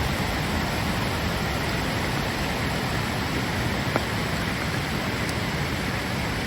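Steady rushing of floodwater from a creek in flood, with a single faint click about four seconds in.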